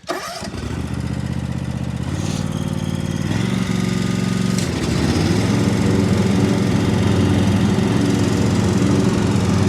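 Lawn mower engine starting up and revving up in steps to a steady high speed, run up to blow clogged wet grass out of the collection tube.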